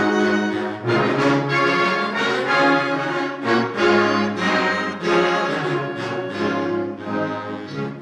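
Community concert wind band playing a piece: full chords from brass and woodwinds, easing off in volume near the end.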